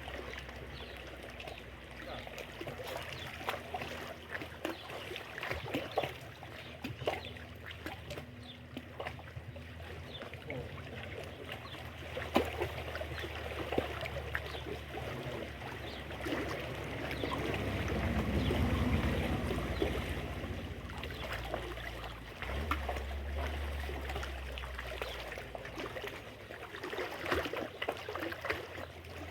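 Water trickling and splashing, with many small scattered knocks and clicks and a low rumble of wind on the microphone that swells for a few seconds midway.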